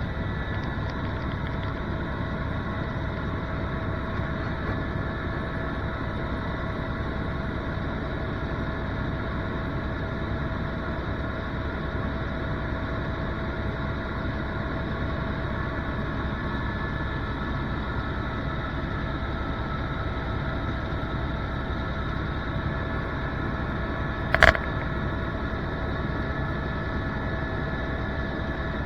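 Helicopter engine and rotor running steadily, a continuous drone with a few steady whining tones. A single sharp click near the end.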